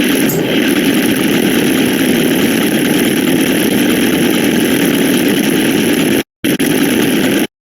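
A loud, dense jumble of many sound effects layered on top of one another, with a rough engine-like texture. It cuts out to silence for a split second about six seconds in and again near the end.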